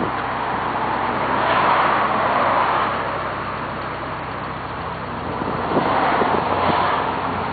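Vauxhall Vectra's engine running while parked, heard from behind the car, the sound swelling twice: about a second and a half in and again around six seconds in.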